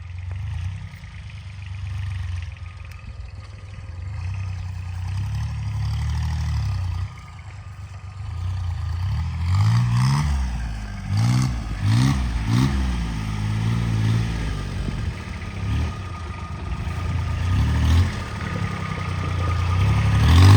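Homemade tractor's engine running, revved up and down several times in quick succession about halfway through, with some clatter.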